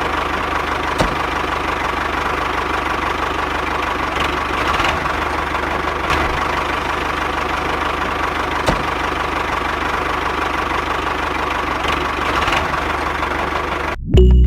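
Engine idling steadily at an even level, cutting off suddenly near the end.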